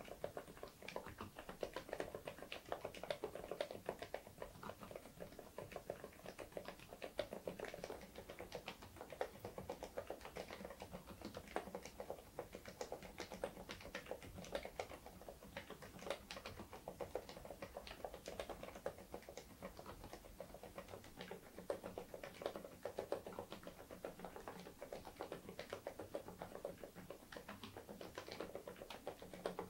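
Continuous typing on an Interpixel IPK104 PRO full-size keyboard with Leobog Cotton Candy silent switches: a steady stream of quiet, muted keystrokes, several a second.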